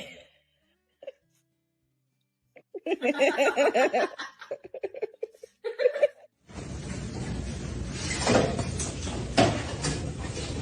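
A person laughing in quick pulses for a few seconds, after a near-silent start. A dense, even background noise takes over for the rest.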